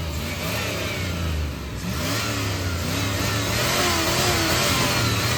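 Turbocharged Dodge pickup engine revving, its pitch rising and falling several times over a steady low running note, with a broad hiss growing louder from about two seconds in.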